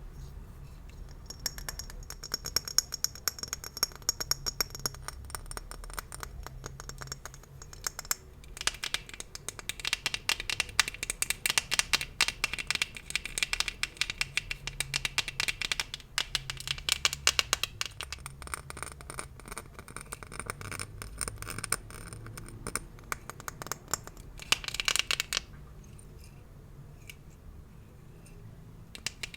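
Close-up crackling and scratching of gift bows being handled and scratched, as ASMR triggers. The sound comes in dense runs of quick crinkly clicks with brief lulls, and is busiest in the middle and quieter near the end.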